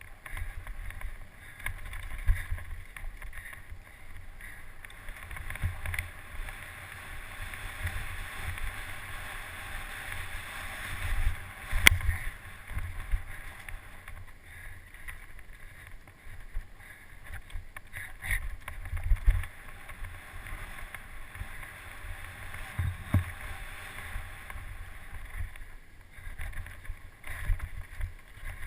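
Wind buffeting the microphone, with irregular low thumps throughout and a sharp knock about twelve seconds in and another a little after twenty-three seconds.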